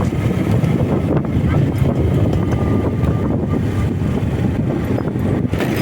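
Riding motorcycle: wind buffeting the microphone over the bike's engine and road noise, steady throughout.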